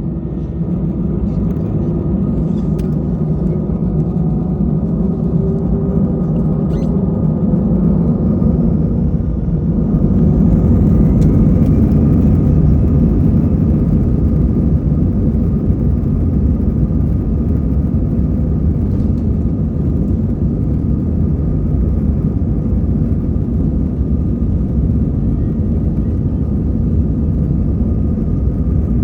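Airbus A320 jet engines and airflow heard from inside the cabin: a loud, steady rumble with faint steady engine tones above it. It swells slightly about ten seconds in.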